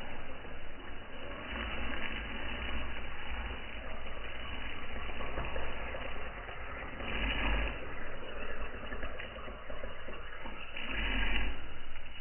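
Wood fire burning in a fireplace: a steady rush with small crackles, swelling louder three times.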